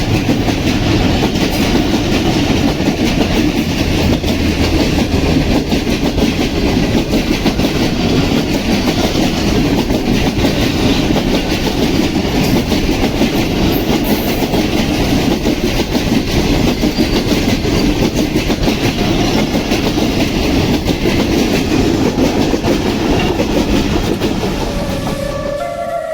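Tezgam Express passenger train running past at speed, with a loud, steady clatter of wheels over the rails that eases slightly near the end.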